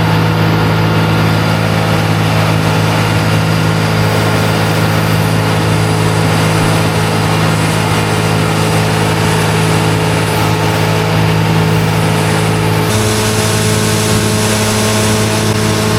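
Tractor engine running steadily while pushing and packing ground wet corn in a silage pit; about thirteen seconds in the engine note changes.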